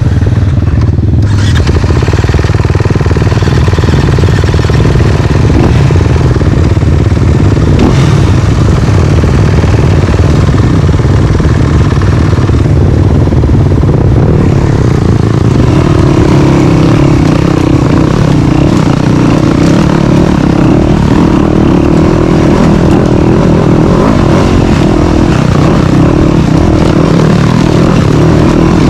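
Dirt bike engine running loudly and continuously, with a higher steady engine note coming in about halfway through.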